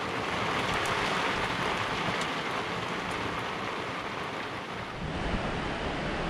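Steady rain falling on a sailboat's deck and cockpit, with faint scattered ticks of drops. About five seconds in, it changes to wind buffeting the microphone over surf on a beach.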